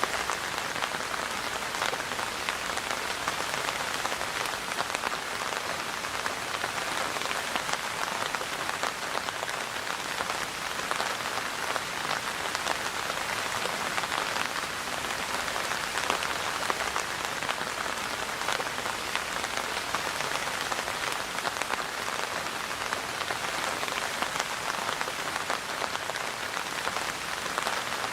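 Steady rain falling: a dense patter of individual drops over an even hiss, unchanging throughout.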